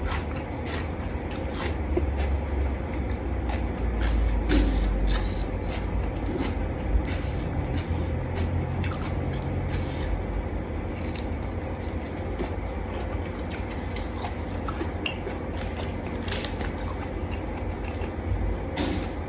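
A person chewing and eating a seafood salad of shrimp and squid close to the microphone, with frequent small clicks and wet mouth sounds over a steady low hum.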